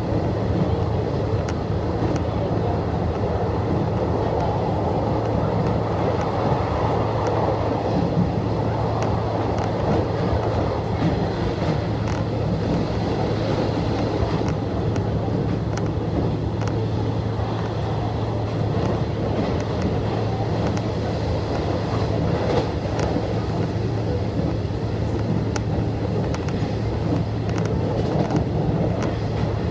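Electric express train of the Nishitetsu Tenjin-Ōmuta Line running at speed, heard from inside the carriage: a steady rumble of wheels on rail with a low hum and scattered faint clicks.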